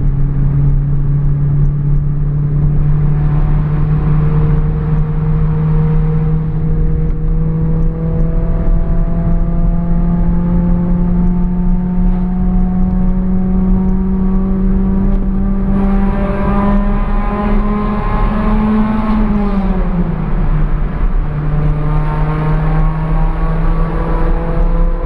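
Car engine running on its first test run after an engine swap. Its pitch climbs slowly and steadily, drops quickly about three quarters of the way in, then holds steady.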